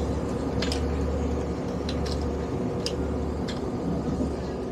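Passenger train running, heard from inside the carriage: a steady low rumble with a handful of irregular sharp clicks and rattles.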